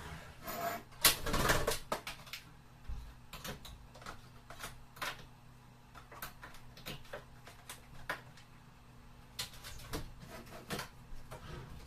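Handling and fitting noises from setting up a portable spot cooler: irregular plastic clicks, knocks and rustling, sped up to double speed, with the loudest rustle-and-knock burst about a second in and a faint steady hum underneath.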